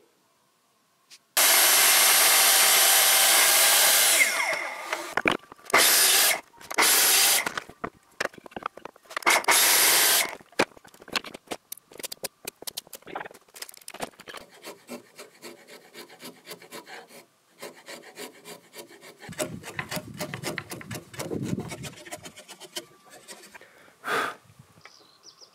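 Power tool cutting into oak timber in a steady burst of about three seconds, then three shorter bursts. After that comes a long run of light wooden knocks and taps as the oak pieces of the scarf joint are handled and fitted together.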